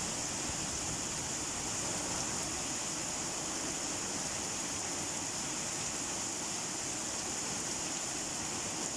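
Steady rain falling, an even unbroken hiss with no distinct drops or pauses.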